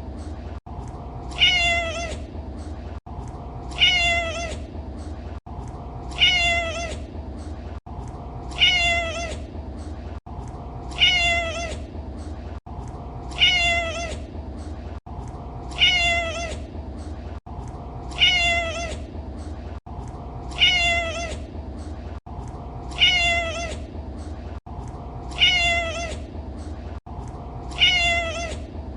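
A domestic cat meowing: the same short meow repeated about every two and a half seconds, each call falling slightly in pitch, over a steady low background hum.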